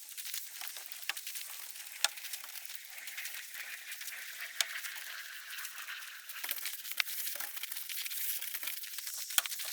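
Snow and ice crunching and scraping: a crackly hiss with sharp clicks every couple of seconds.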